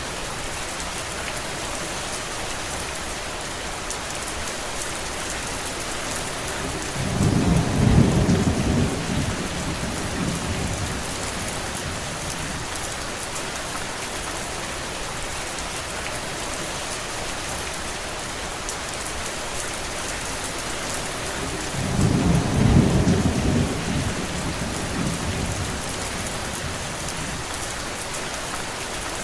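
Steady rain falling, with two low rumbles of thunder, the first about seven seconds in and the second about twenty-two seconds in, each lasting around three seconds and fading out.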